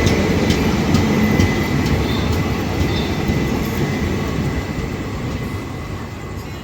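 A train running along the tracks with a steady rumble and a few sharp clicks, growing steadily quieter as it moves away.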